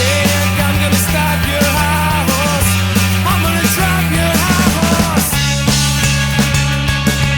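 Rock band playing an instrumental passage: drums and bass under a melodic lead line that bends in pitch. The bass moves to a new note about five seconds in.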